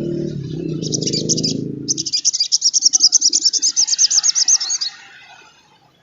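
Sogon trotol singing: a short burst of high chattering notes, then a fast, even trill of high notes that stops about five seconds in. A low hum runs under the first two seconds.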